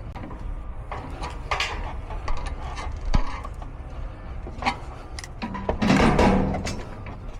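Metal tools and parts knocking and clinking while a blower wheel stuck on its motor shaft is worked loose, with a louder scraping rattle about six seconds in.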